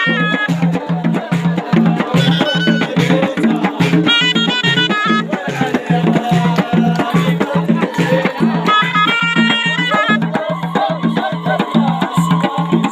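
Moroccan ghaita, a double-reed shawm, playing a high stepping folk melody in short phrases over a steady, fast drum beat.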